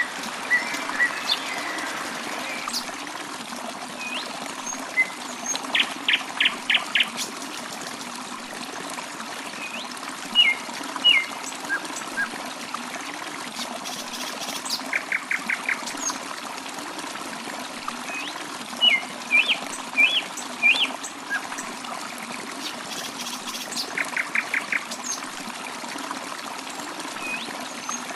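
Water trickling steadily, with birds calling over it: scattered short chirps and, about every nine seconds, a quick trill of four to six sharp notes.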